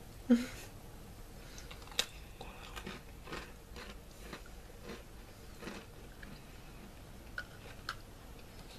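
Oreo sandwich cookies being bitten and chewed close to the microphone, with scattered crisp crunches and a sharp click about two seconds in. A brief voice sound near the start is the loudest moment.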